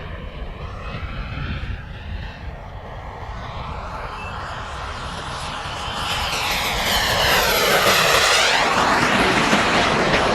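An aircraft's engine flying past: a steady rushing sound that builds, is loudest about eight seconds in as it passes closest, with its tone sweeping down and back up, then begins to fade.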